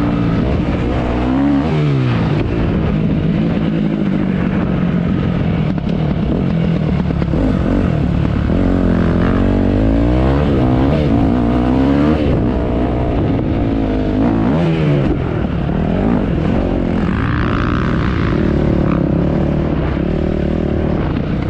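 Motocross dirt bike engine revving while riding off-road, its pitch repeatedly rising and falling as the throttle is opened and shut.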